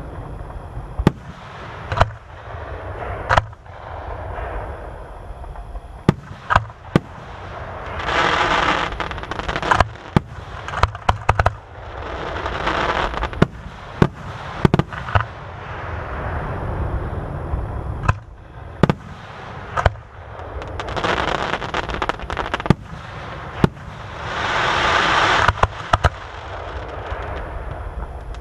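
Aerial fireworks display: a rapid series of sharp bangs from bursting shells, with swelling waves of crackle and fizz from the bursts several times.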